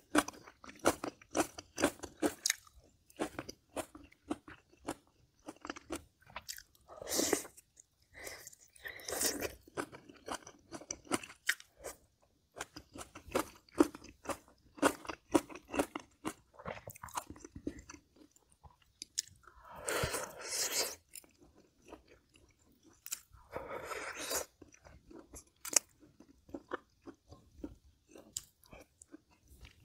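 Close-miked mukbang eating: a person chewing and crunching mouthfuls of braised kimchi, pork ribs and rice, in quick runs of short crisp crunches. The kimchi is only lightly braised and still crunchy. There are a few longer, louder chewing stretches along the way.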